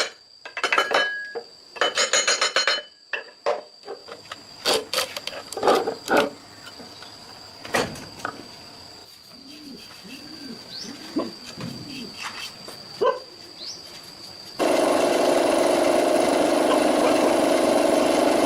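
Scattered clinks and knocks of work on a machine, then about fifteen seconds in a steady motor or engine noise cuts in suddenly and keeps running.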